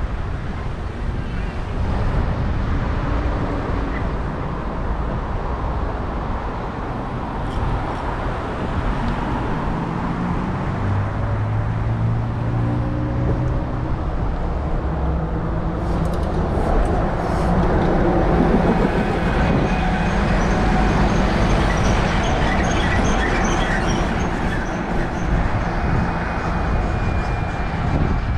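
Road traffic heard from a moving bicycle, with wind rumbling on the microphone. A passing vehicle's engine hum swells in the middle, and a faint high squeal runs through the second half.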